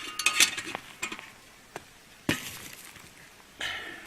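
Metal clinking and clanking from working a campfire and cast-iron camp oven. A quick run of light clinks comes in the first second, then a single sharp clank a little past halfway.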